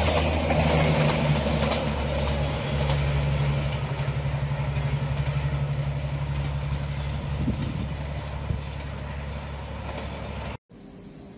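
D19E diesel-electric locomotive running with a steady low engine drone and rail noise, slowly getting quieter. It cuts off abruptly near the end, leaving crickets chirping.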